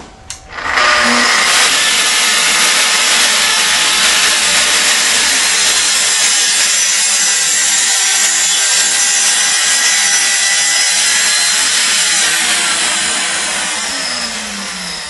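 Festool plunge-cut track saw starting up and making a 30-degree bevel cut along its guide rail, running loud and steady under load. Near the end it is released and winds down, its pitch falling.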